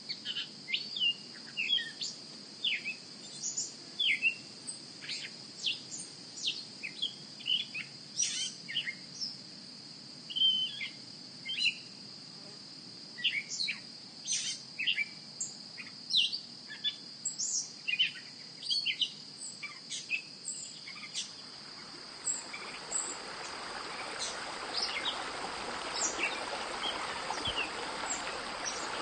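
Birds chirping in many short, quick calls over a steady high insect drone. From about twenty seconds in, a rushing noise builds and grows louder.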